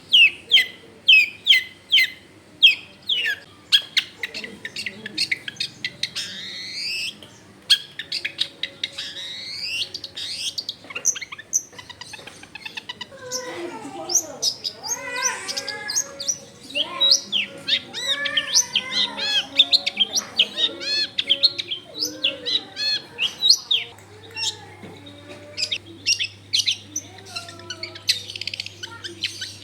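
Long-tailed shrike (cendet) singing a long, varied song. It opens with a run of sharp, falling high notes about two a second, moves to rising sweeps, then to a lower warbling stretch of quick phrases, and ends in fast high chirps.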